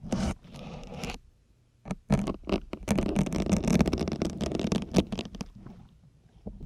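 Syringe needles jabbed into a grey sponge, a crunching, scraping sound as each goes in. A short burst at the start, a brief pause, then a longer run of quick crackling strokes that fades out near the end.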